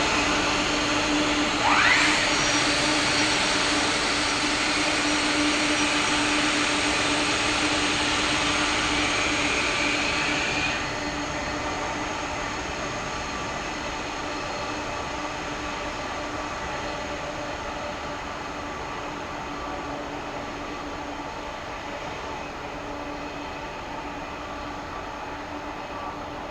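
Jet engine noise from a Boeing 747-400F freighter, steady and slowly fading. A brief rising whine comes about two seconds in, and the high hiss drops away suddenly about eleven seconds in.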